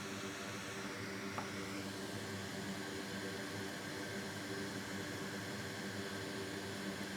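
Steady airy hiss of a fan or blower running, with a low electrical hum under it and a faint tick about a second and a half in.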